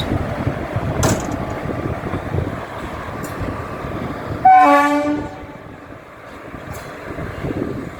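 Electric locomotive rumbling along the track, then giving one short horn blast a little past halfway, after which the running noise dies down.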